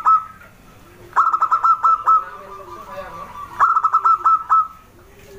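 Zebra dove (perkutut) singing its cooing song: a fast stuttering run of short notes ending in a drawn-out coo, repeated twice about two and a half seconds apart, with the tail of another phrase at the start.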